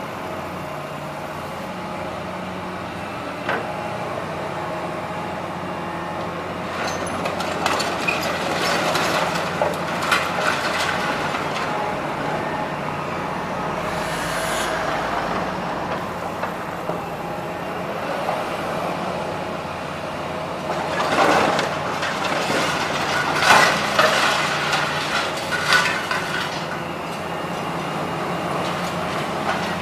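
Heavy diesel demolition machinery running steadily, with two stretches of irregular clattering and crashing as debris is broken and moved.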